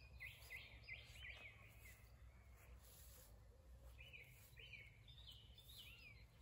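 Faint songbird chirping in short phrases of quick rising and falling notes, pausing after the first second and a half and starting up again about four seconds in, over a low steady background rumble.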